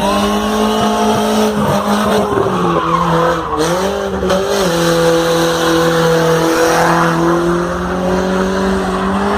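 Car engine revved hard and held at high revs, its pitch dipping and wavering briefly about halfway through before holding high again.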